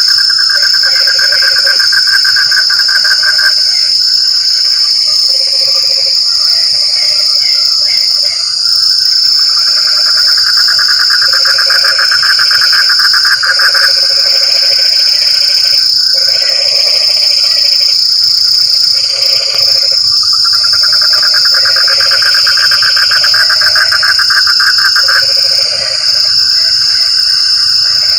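A chorus of frogs calling: long pulsing trills lasting a few seconds at a time, mixed with shorter, lower repeated croaks. Under them runs a steady, high-pitched insect drone.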